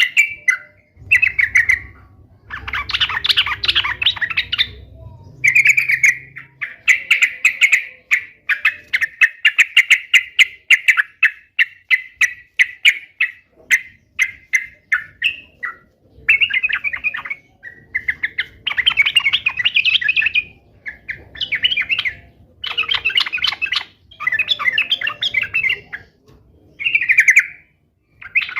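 Yellow-vented bulbul (trucuk) singing and chattering: bursts of rapid, bubbling chirps and short phrases, each a second or two long, repeated with brief pauses.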